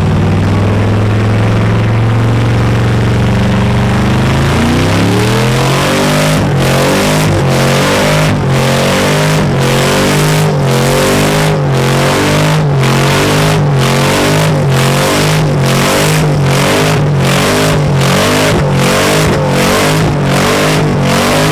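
A car engine revved hard and loud: it holds a steady high note for about four seconds, then rises and falls in pitch about twice a second, over and over.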